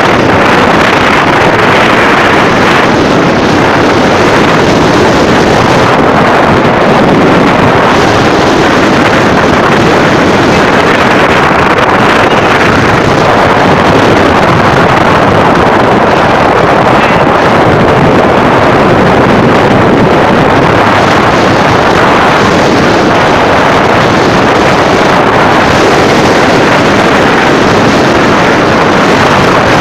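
Storm wind and heavy rain, a loud, steady rushing noise that does not let up, with wind buffeting the microphone.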